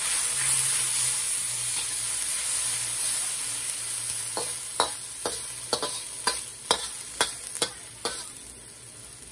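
Chopped onion and pimento peppers sizzling in hot oil in a wok while being stirred with a metal spatula. From about halfway, about ten sharp clicks as the spatula scrapes and taps the wok, and the sizzle dies down near the end.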